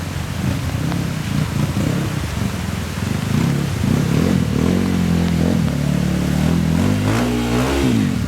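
Motorcycle engine revving under load. It grows louder a few seconds in, swings up and down in pitch near the end, then drops away abruptly.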